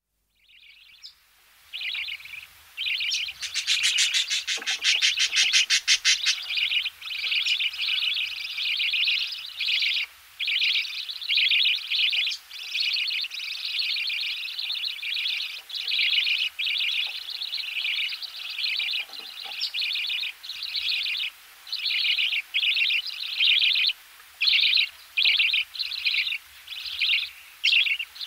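Budgerigar chicks in the nest giving rapid pulsed begging calls while being fed, in near-continuous bursts of about a second each, loudest and shrillest a few seconds in. Faint knocks sound now and then beneath them.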